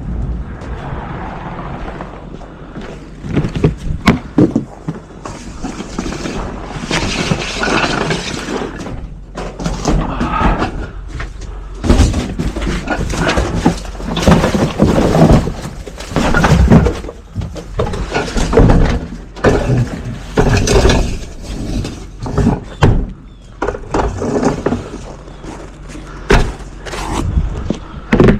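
Garbage collection at the truck: a string of irregular loud bangs, thuds and clattering as trash and cans are dumped into a garbage truck.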